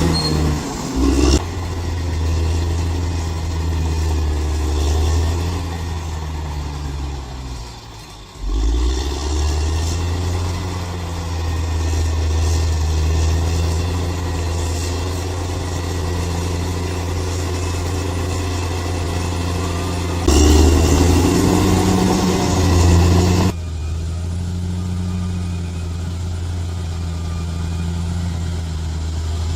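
Bulldozer's diesel engine running under load, its note sagging and nearly dropping away about eight seconds in before picking up again. A louder, rougher stretch of about three seconds comes two-thirds of the way through, starting and stopping abruptly.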